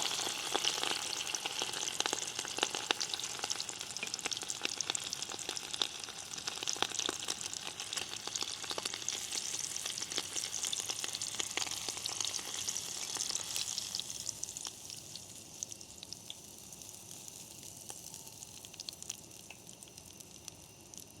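Rice-paper-coated shrimp deep-frying in hot oil: a loud crackling sizzle that dies down after about fourteen seconds as the rice paper puffs up and crisps.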